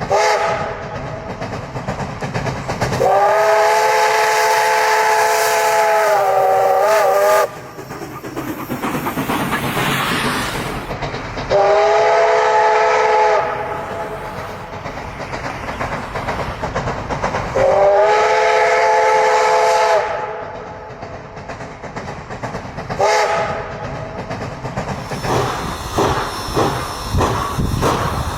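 Steam locomotive chime whistle sounding a chord of several notes, blown four times: one long blast, two shorter ones and a brief toot, with steam hissing between them. Near the end a quick rhythmic beat of the train starts up.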